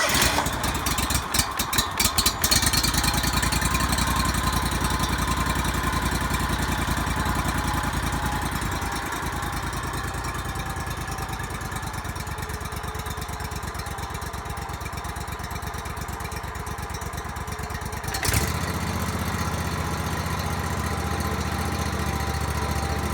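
Small gasoline engine of a 4-inch gravity-fed wood chipper just started on choke, running unevenly for the first couple of seconds and then settling into a steady run. About 18 seconds in there is a knock, and the engine note shifts and grows slightly louder.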